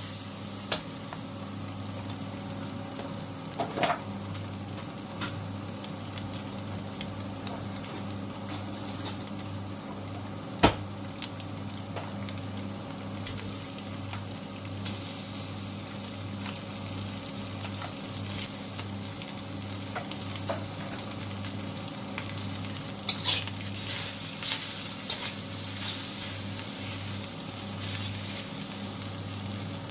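Shrimp, egg and rice sizzling in a steel wok while a metal spatula stirs and scrapes them, with scattered sharp clicks of the spatula striking the pan. The loudest click comes a little over a third of the way in. The sizzle grows brighter about halfway through, over a low steady hum.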